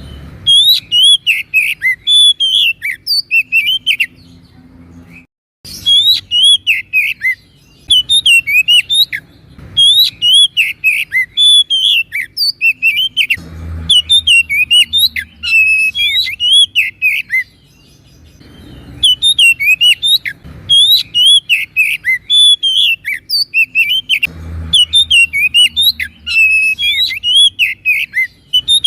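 Oriental magpie-robin (kacer) in full song: loud bursts of rapid, varied whistled phrases, broken by short pauses every few seconds.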